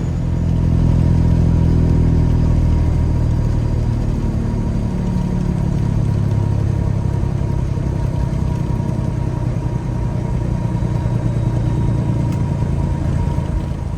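Peterbilt 359 dump truck's diesel engine running under way, its note easing down over the first few seconds and then holding steady.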